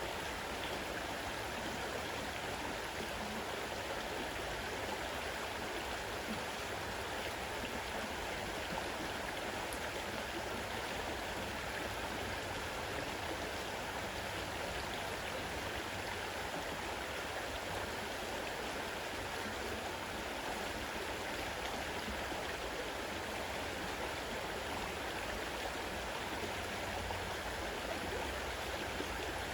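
Fast-running river water rushing steadily over its bed.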